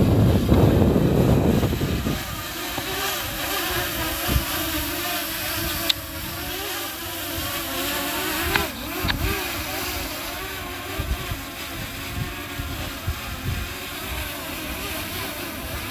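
Wind buffets the microphone for the first couple of seconds. After that comes the steady buzz of a Potensic Atom mini drone's propellers, its pitch wavering as the motors work against gusts while it is flown back in to land.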